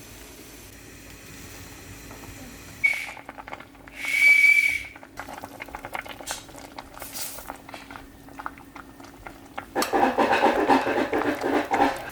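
A short high beep or whistle, then a louder one lasting about a second, over a faint steady hum. Light clicks follow, and near the end dishes and pots clatter.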